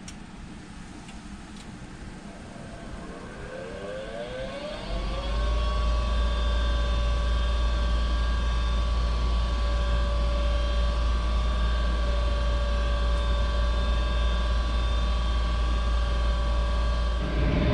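Goodman 95% AFUE gas furnace starting up: a motor spins up with a rising whine about three seconds in, then runs steadily with a hum and a low rumble. Near the end a louder rushing noise joins in as the start-up sequence goes on.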